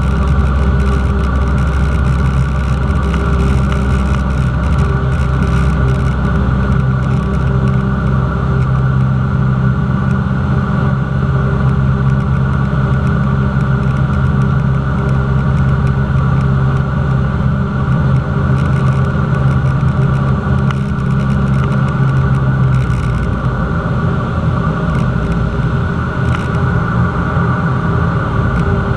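Cessna 172's piston engine and propeller running steadily; the engine note changes about 23 seconds in.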